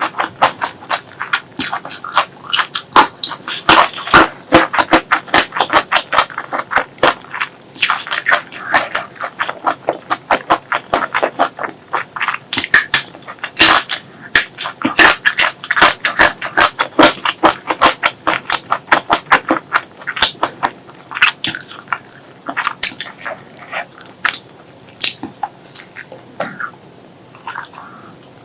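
Close-miked eating sounds: rapid wet chewing and lip-smacking clicks, several a second, with short pauses, thinning out near the end.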